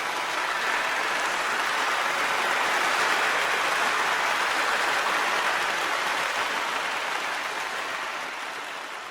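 Applause from many people clapping, steady and dense, swelling slightly and then fading out toward the end.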